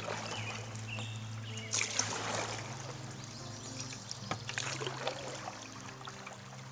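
Kayak paddle strokes splashing in the water, a stroke about every two seconds, over sustained low background music tones that change chord about halfway through.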